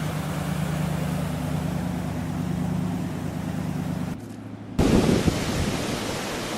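Storm noise: a steady rushing of wind and surf with a low, steady mechanical hum under it. About four seconds in it breaks off briefly, then comes back as loud gusts of wind buffeting the microphone.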